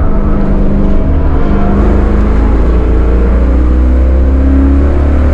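Chevrolet Caprice's LT1 V8 engine pulling hard under acceleration out of a corner, heard from inside the cabin, its pitch climbing steadily as the revs rise.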